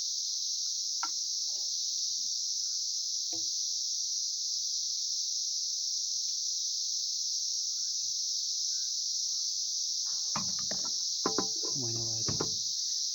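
Steady chorus of crickets: an unbroken high-pitched trill. A few faint clicks come early on, and a man's voice is heard near the end.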